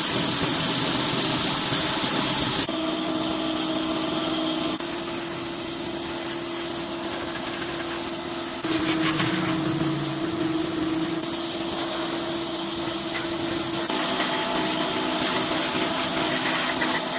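A workshop power tool running steadily, a hum with a fixed whine under a strong hiss. The sound shifts abruptly in level and character a few times, as if in separate takes.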